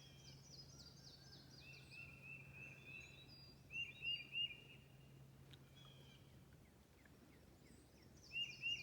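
Northern cardinal singing: a run of clear whistled notes, then a quicker group of three, the song repeating near the end. Another bird's higher, faster note series comes at the start and again at the end, over a faint steady low hum that stops about two-thirds of the way through.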